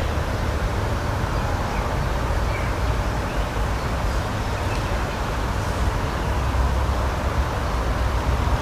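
Steady outdoor nature ambience: an even rushing noise with a low rumble underneath, and a few faint short bird chirps above it.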